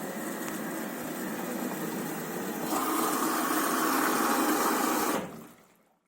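LG washing machine running with a steady mechanical whir that gets louder about two and a half seconds in, then fades out.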